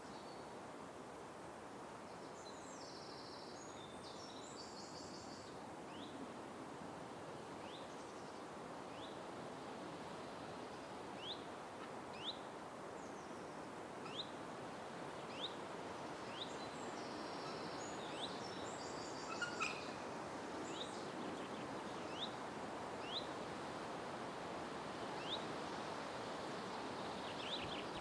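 Forest ambience: a steady soft background hiss with birds calling over it. One bird repeats a short high rising chirp roughly once a second from about six seconds in, and two brief bursts of higher, busier bird song come early on and about two-thirds of the way through.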